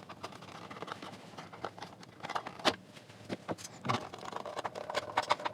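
Irregular small clicks, knocks and scrapes of tools and plastic parts being handled while a bookshelf speaker enclosure is taken apart.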